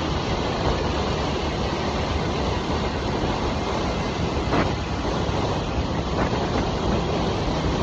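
2023 Harley-Davidson Nightster's 975 cc Revolution Max V-twin running at a steady cruise, with wind rushing over the microphone.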